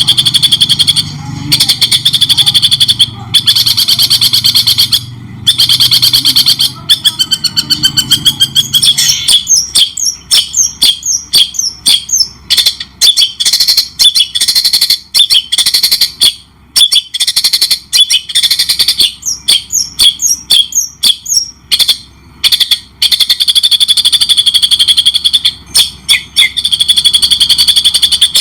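Songbird song from a bird-tutoring recording: long runs of fast, rattling trills, broken in the middle by a stretch of quick, separate chirps with short pauses between them.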